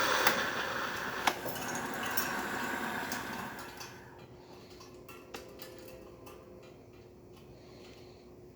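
Saeco Xelsis milk carafe frothing milk with steam: a steady hiss with a couple of sharp clicks, which fades out about four seconds in. After it comes a quieter stretch with a faint hum and scattered light clicks from the machine.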